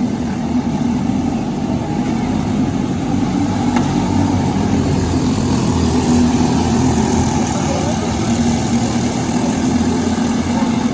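Briggs & Stratton LO206 four-stroke single-cylinder kart engine running steadily at speed, its note wavering only a little.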